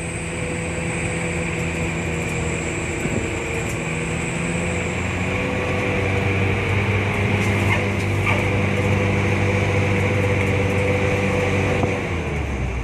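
Mitsubishi L300 pickup's engine running steadily under way, its note rising slightly, then dropping suddenly near the end.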